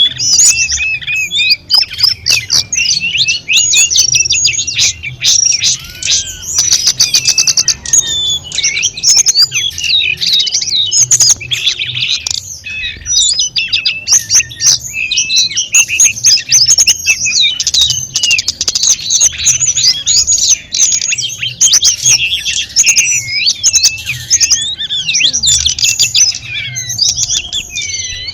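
Tledekan gunung, a blue flycatcher, singing a long, rich, unbroken song of rapid whistles, sweeps and trills that keeps changing phrase, over faint trickling water.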